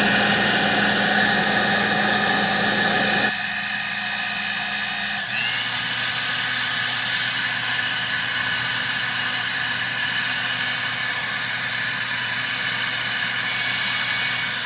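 Leaf blower running with a steady motor whine. Its sound thins a little over three seconds in, and about five seconds in its pitch glides up and it gets slightly louder.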